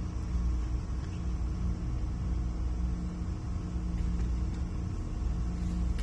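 Steady low mechanical rumble with a faint constant hum.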